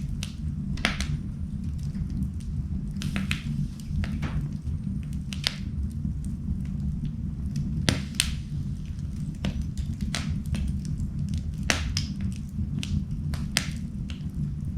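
Wood fire burning in an indoor fireplace, crackling with irregular sharp pops over a steady low rumble. The loudest pop comes about eight seconds in.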